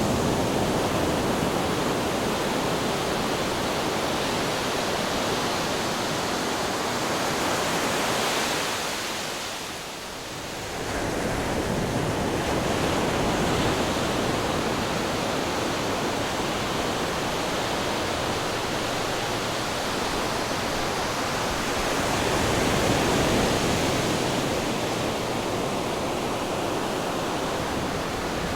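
Ocean waves breaking on rocks: a continuous rushing wash of surf that dips briefly about ten seconds in, then builds again.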